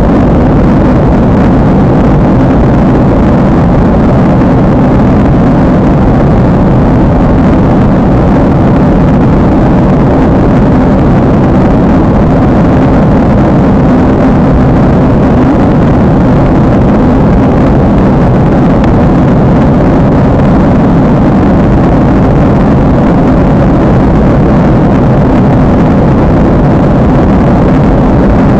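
Steady, loud roar of an airliner cabin in flight: jet engine and airflow noise with no change over the whole stretch.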